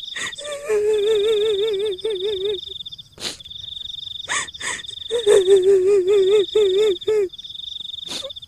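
Kuntilanak ghost sound effect: a woman's high, quavering wail-laugh, heard twice, over a steady chirring of crickets, with short dog barks between.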